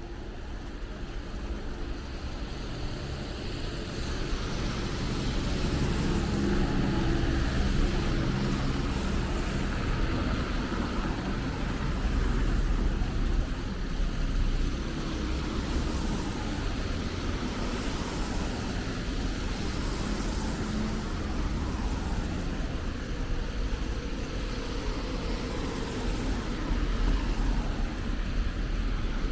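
City road traffic: cars running past in a steady rumble of engines and tyres.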